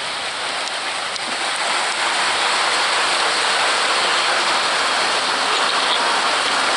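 Heavy rain falling steadily, a dense hiss that builds a little over the first two seconds.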